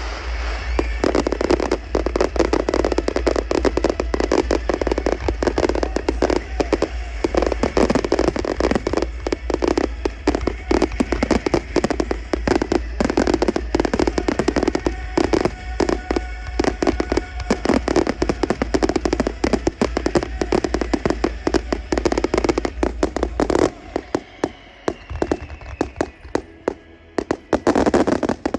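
Fireworks display: a dense, rapid volley of bangs and crackles that thins out and drops in level about 23 seconds in, with a final cluster of bangs near the end.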